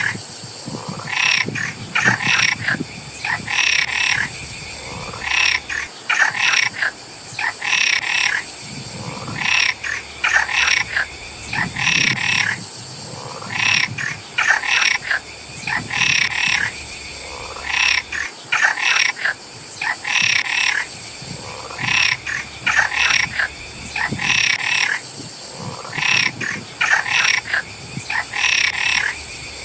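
Frogs croaking: short calls repeated in clusters every second or two, over a steady high-pitched background hiss.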